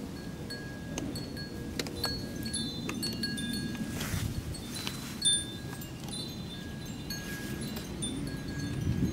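Scattered short, clear ringing tones at a few repeated pitches, chime-like, with light clicks over a low rumble.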